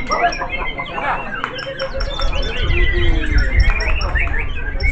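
Several white-rumped shamas (murai batu) singing at once, a dense tangle of overlapping whistles, trills and rapid repeated chirps, over a low background rumble.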